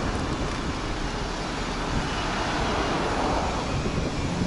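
Steady rush of wind on the microphone mixed with street traffic noise, a broad swell rising and fading partway through.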